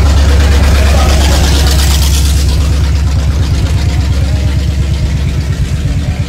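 A car engine's deep exhaust rumble running close by, steady and pulsing, easing off a little near the end.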